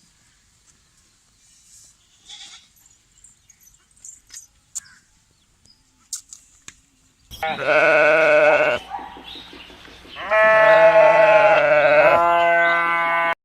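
A farm animal bleating twice with a quavering pitch: one call about a second and a half long near the middle, then a longer one near the end that settles onto a steadier note. The calls follow several seconds of faint scattered clicks and rustles.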